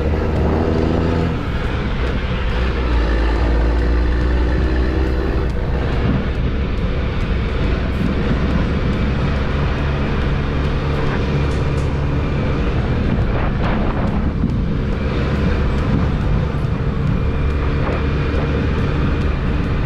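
Motor vehicle driving, its engine running at a steady hum under road noise.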